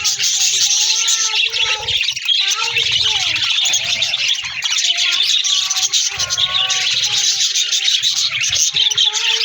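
A flock of budgerigars chattering, with dense, high, rapid chirping that never lets up.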